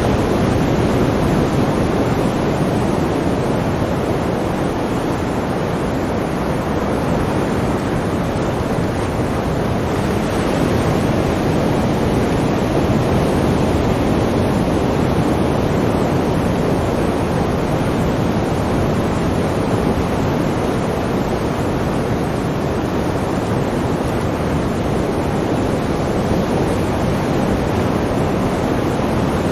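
Sea surf as a steady, continuous rush of breaking waves, with no single crash standing out above the rest.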